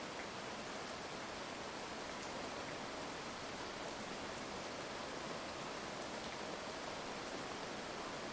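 Heavy rain falling steadily, an even hiss with no thunder in this stretch.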